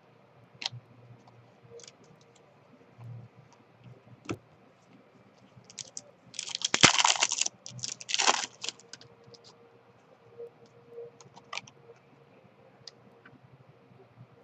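Trading cards and packs being handled: scattered light clicks and taps, with two louder rustling bursts about six and eight seconds in.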